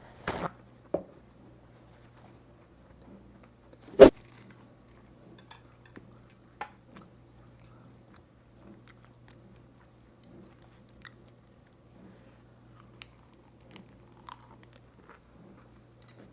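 Close-miked biting and chewing of a lettuce wrap filled with bulgogi beef: a crunchy bite at the start, then quiet, scattered chewing clicks and smacks. About four seconds in comes one sharp, loud knock.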